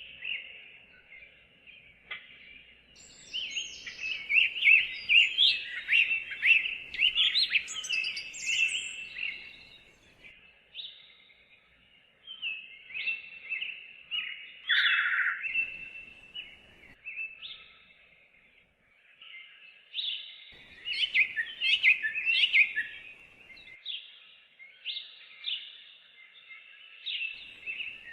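Several songbirds chirping and trilling in a chorus, busy at first, thinning out in the middle and filling in again near the end.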